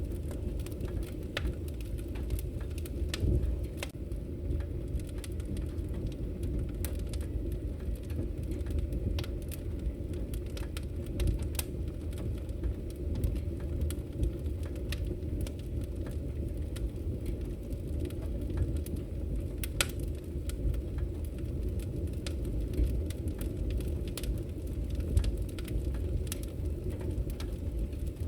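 Wood fire crackling in a fireplace: frequent sharp pops and snaps scattered over a steady low rumble.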